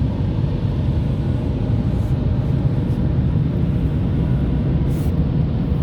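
Steady low rumble of a car heard from inside its cabin, with a faint steady hum.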